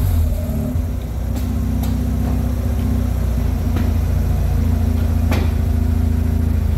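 Mazda RX-8's twin-rotor rotary engine idling steadily, with a few faint clicks over it.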